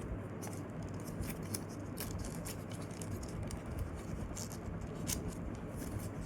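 Folded paper rustling and crinkling in the hands as the folds of a paper airplane are pressed and adjusted: scattered short, scratchy crackles over a steady low hum.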